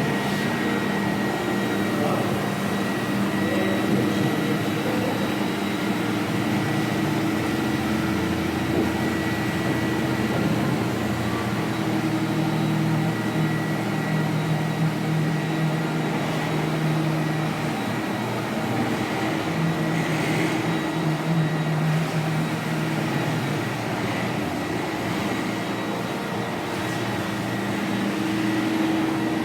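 Floor-cleaning machine running steadily, a continuous motor hum with a thin high whine above it; a lower tone in the hum comes and goes in the middle stretch.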